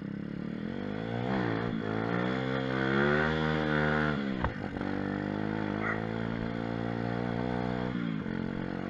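Pit bike engine under way, revving up with rising pitch over a few seconds. About four seconds in the revs drop sharply, then the engine runs fairly steadily, with another brief dip near the end.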